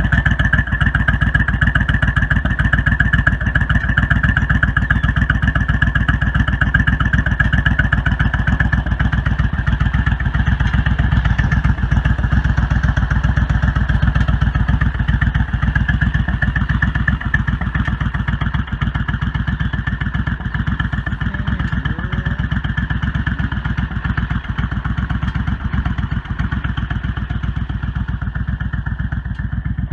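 Suzuki Intruder 1400's V-twin engine running steadily while the motorcycle is ridden, loud and even throughout.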